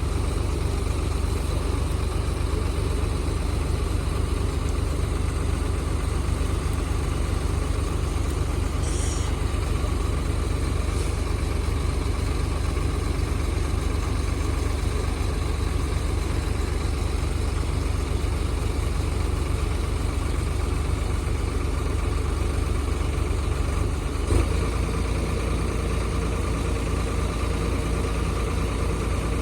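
Old tractor backhoe's engine running steadily. A single sharp knock comes near the end, after which the engine note changes slightly.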